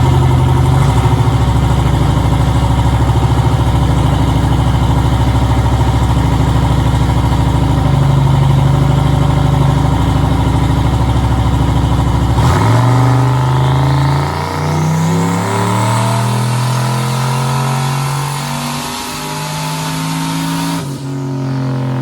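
Turbocharged 5.3-litre LS V8 running hard on a chassis dyno. It starts abruptly, holds a steady engine speed for about twelve seconds, then the engine note shifts up and down in steps. A high whine rises for a few seconds partway through.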